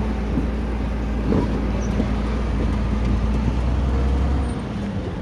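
Truck engine and road noise while driving, a steady low drone that drops away about four and a half seconds in. A short knock about a second and a half in.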